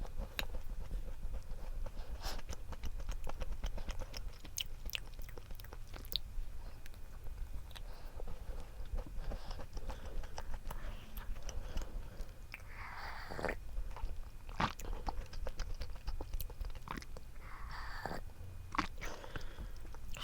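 Close-miked chewing and biting of frozen chocolate snack cakes, with many small crunchy clicks.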